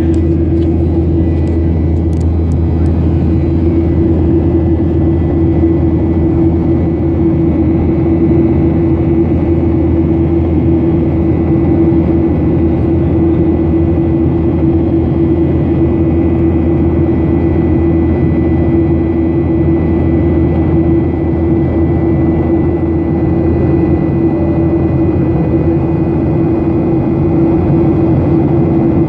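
Steady drone of a Boeing 737-800's CFM56 jet engines and airflow as heard inside the cabin, a constant loud hum with a deep low rumble beneath it that neither rises nor fades.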